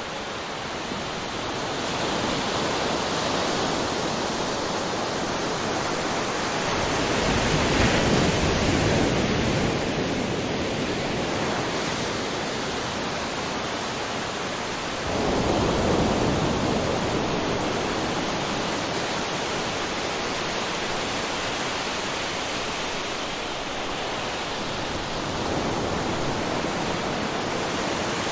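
Ocean surf: a continuous wash of breaking waves, with two larger waves swelling up about seven and fifteen seconds in and fading back.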